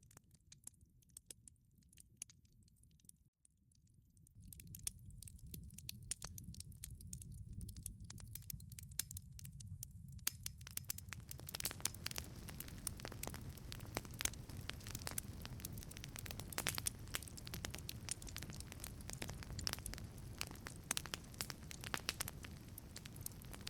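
Wood fire burning in a wood-fired pizza oven: a low rush of flame under sparse pops and crackles. There is a brief break about three seconds in, and from about halfway on the fire runs louder, with dense crackling.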